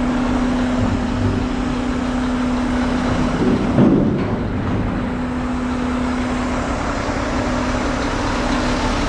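Diesel truck engine running with a steady drone, with a brief louder rise about four seconds in.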